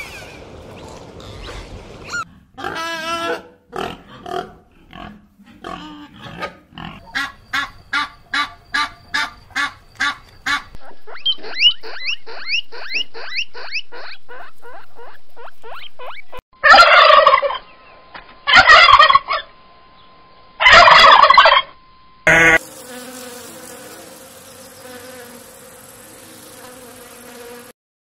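A run of farm-animal calls in quick succession: chicks peeping in a slow series of calls, then a dense run of fast falling squeaks from guinea pigs. These are followed by three loud bursts of fowl calls about two seconds apart, the loudest part, and then a quieter steady background.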